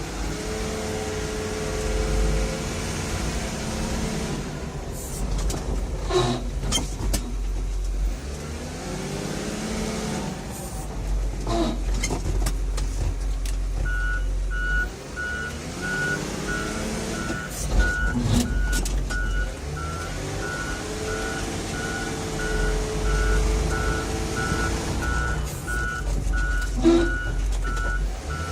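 Large vehicle moving slowly with brake noise: pitched sounds that slide up and down over a low rumble, and several sharp knocks. About halfway through, a reversing beeper starts, beeping in a steady rhythm.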